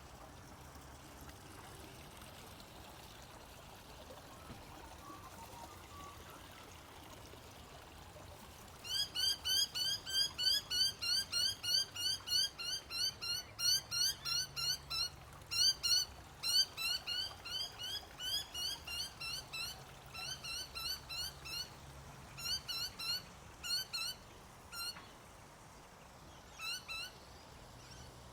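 Faint trickling water, then about nine seconds in a bird starts calling over and over: short sharp notes, about two to three a second, for some fifteen seconds, growing sparser near the end.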